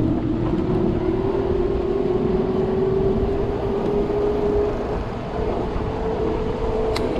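Electric bike's hub motor whining, its pitch rising slowly and steadily as the bike speeds up, over a constant rush of wind and road noise. A single sharp click near the end.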